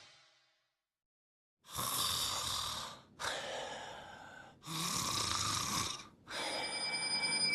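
Four long, noisy breaths or snores in a row, each lasting about a second and a half, after a brief silence.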